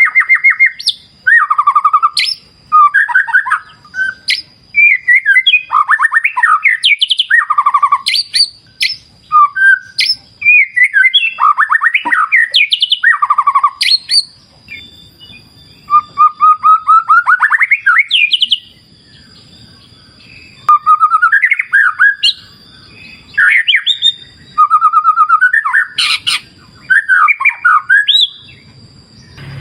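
White-rumped shama (murai batu) singing: a long string of varied whistled phrases that sweep up and down, with short pauses between them. A faint steady high-pitched tone runs underneath.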